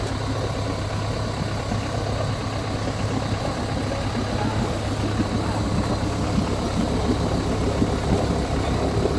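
Off-road four-wheel-drive vehicle's engine running steadily at idle, a constant low drone.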